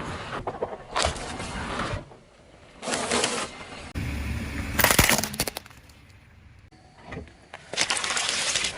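Things crunching and cracking as they are crushed under a car's tyre, in several short bursts, with the loudest sharp crack about five seconds in.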